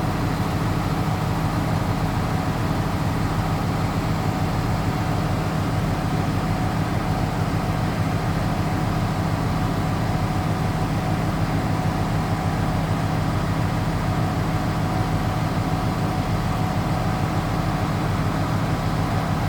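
Steady vehicle engine drone with a constant low hum, holding level and pitch throughout.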